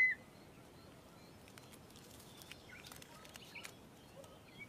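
Quiet outdoor ambience: a short whistled bird note right at the start, then faint scattered bird chirps and a few light clicks over a low background hiss.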